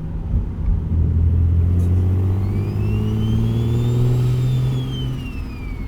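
Single-turbo Infiniti G37's VQ37 V6 pulling under throttle, getting louder about a second in. A high turbocharger whine rises in pitch for about two seconds and then falls away again.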